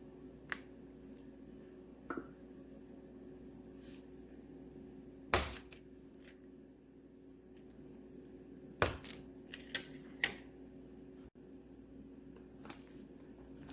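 A knife chopping through a block of scented wax melt on a hard surface: scattered sharp cuts and knocks, the loudest about five and nine seconds in, over a faint steady hum.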